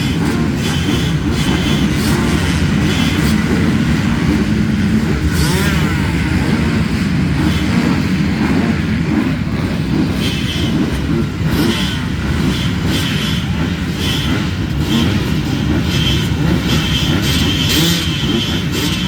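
Motor vehicle engines running steadily, a continuous low rumble, with short high chirps repeating over it, more often in the second half.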